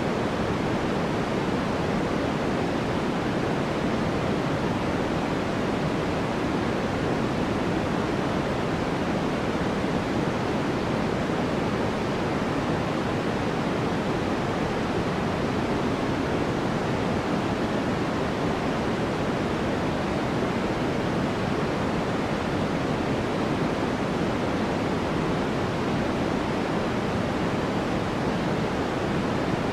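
Steady white-noise track: an even, unbroken rushing hiss, weighted toward the low-middle range, with no change throughout.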